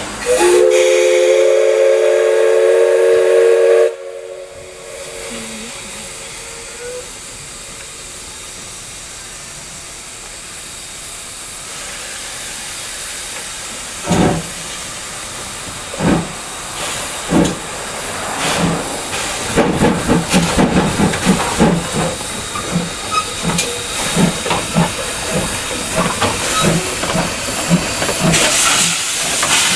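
Steam locomotive C56 44 sounds one loud whistle blast of about three and a half seconds, then stands hissing steam. About fourteen seconds in its exhaust chuffs begin, slow at first and then quicker and more irregular as it pulls away.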